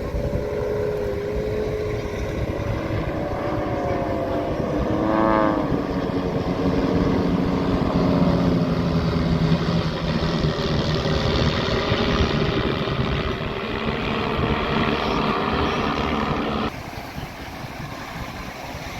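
Display aircraft flying past: steady engine drone whose tones slide in pitch as it passes, with a sharp pitch swing about five seconds in, building to a loud rushing roar that cuts off abruptly near the end.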